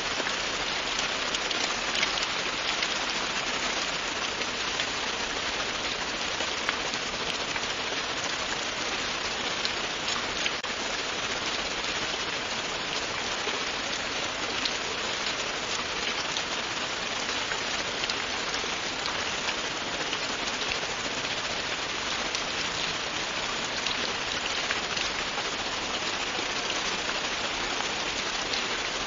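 Steady, continuous rain falling, a dense even hiss with fine crackle of individual drops hitting surfaces.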